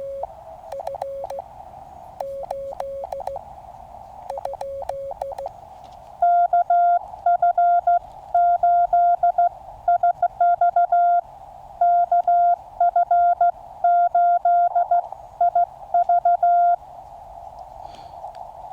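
Morse code through a QCX Mini QRP transceiver's audio. For about the first five seconds a weak incoming CW signal is keyed in the receiver's band hiss. From about six seconds in, a much louder, higher Morse tone is keyed for about ten seconds as the reply goes out. The receiver hiss carries on alone near the end.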